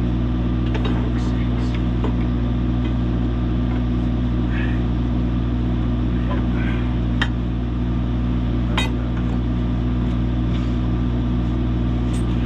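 An engine idling steadily, with a couple of sharp metal clanks, one about seven seconds in and another near nine seconds.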